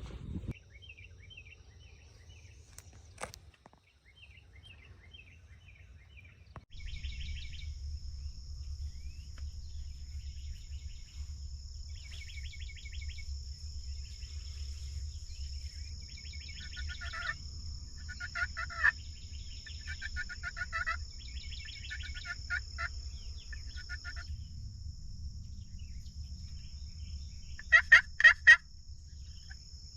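Osceola wild turkeys gobbling again and again, each gobble a quick rattling run of notes. The first few are faint; then comes a loud, close run of gobbles near the end. A steady high whine runs underneath.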